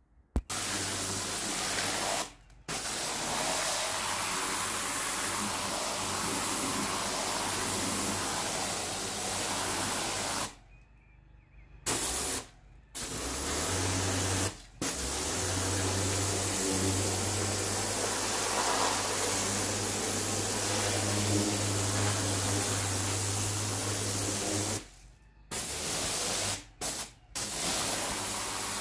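Pressure washer jet spraying onto paving, a steady loud hiss that stops and restarts abruptly several times, each pause lasting up to a second or so.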